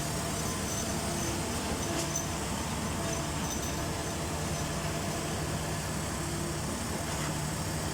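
A motor vehicle running steadily: a continuous rumble with a faint low hum.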